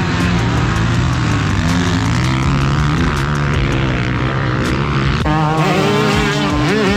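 Dirt bike engines running, their pitch drifting up and down. About five seconds in, the sound changes suddenly to music.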